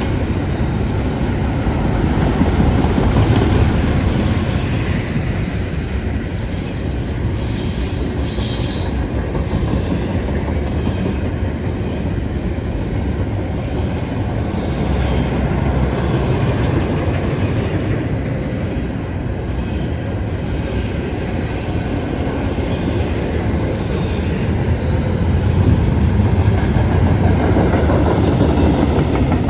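A train rolling past close by: a steady rumble of wheels on rail with clatter over the joints, and brief high wheel squeal about seven to nine seconds in. It swells again near the end.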